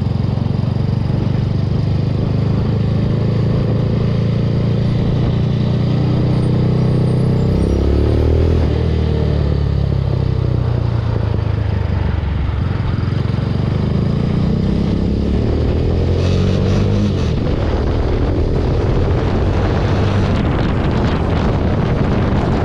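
Venom x22R 250cc sport motorcycle being ridden: the engine's pitch climbs and falls with throttle and gear changes, rising about seven seconds in and again around fifteen seconds in. Wind noise on the microphone comes in near the end.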